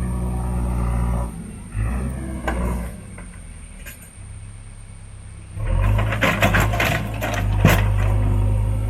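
JCB 3DX backhoe loader's diesel engine running, falling away twice, then coming back louder about two-thirds of the way through with a run of sharp metallic clanks and knocks.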